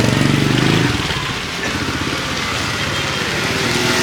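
A small motorbike engine running close by, loudest in the first second and then continuing lower under street noise.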